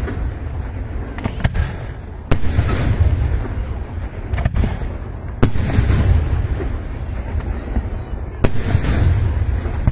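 Fireworks going off: three sharp bangs about three seconds apart, each followed by crackling, over a steady low rumble.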